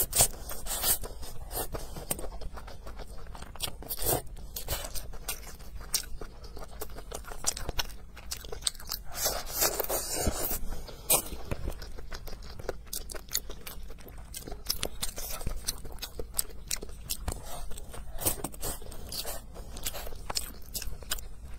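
Close-miked eating sounds: chewing and crunching bean sprouts, glass noodles and braised pork, with many short wet mouth clicks. There is a longer, noisier stretch about ten seconds in.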